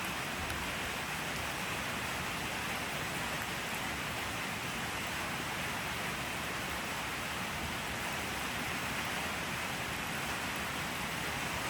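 Steady rainfall: a dense, even hiss of rain with no single drops standing out.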